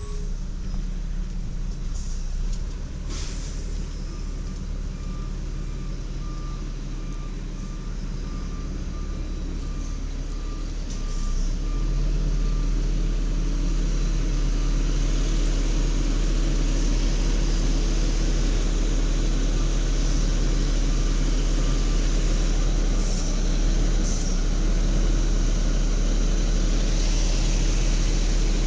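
Heavy garbage truck engine running, with a reversing alarm beeping steadily for several seconds. About twelve seconds in the engine comes up to a louder steady run, with a couple of short hisses later on.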